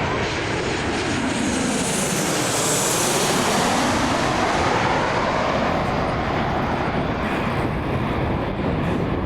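Jet airliner's engines roaring as it passes low overhead. The noise swells to its loudest about three to four seconds in, with a sweeping, phasing shift in tone, then slowly eases.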